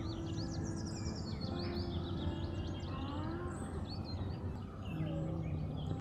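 Birds chirping: many short, quick calls repeating over a steady background noise.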